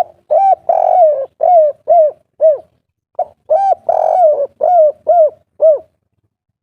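Spotted dove cooing: two phrases of about six short, hooting notes each, the first phrase starting at once and the second after a brief pause about three seconds in.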